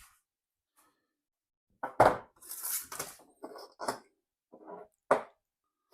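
Hard objects being handled and set down: a series of knocks and clunks, the loudest about two seconds in and another sharp one near the end, with a brief rustle after the first.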